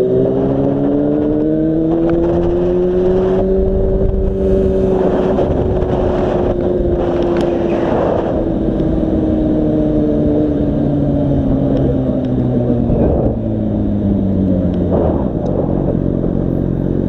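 Yamaha FZ6's inline-four engine on the move, its pitch rising over the first few seconds, holding, then slowly falling as the bike eases off. Wind noise on the microphone swells and fades in the middle.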